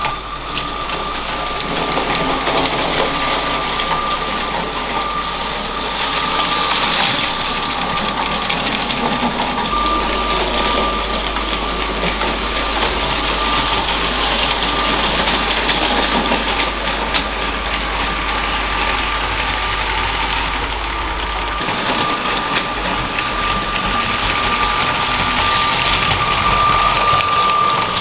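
Motorised LEGO train running on plastic track: a steady high motor whine over the continuous rattle of wheels on the rails.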